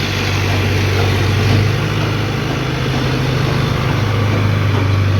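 Heavy diesel engine running steadily, a low even hum.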